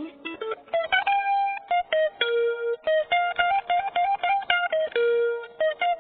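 A cheap maple-body guitar played solo, picking out a melody of single notes, a few of them held longer.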